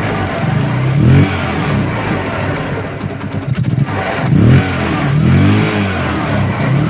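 TVS Apache 160 motorcycle's single-cylinder engine running with the throttle blipped a few times, its pitch rising and falling with each blip. The bike has just been repaired for a ticking noise, and the engine now has a very sweet sound.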